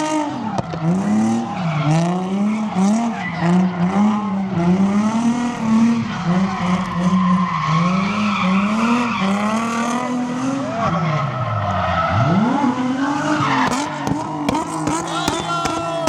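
Car engine revving up and down in rapid pulses while its tires squeal, a car doing donuts; about twelve seconds in the revs drop low and then climb back up.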